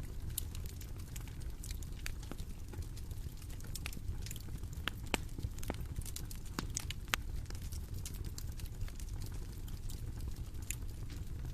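Bonfire crackling: irregular sharp pops and snaps over a steady low rumble of the burning fire.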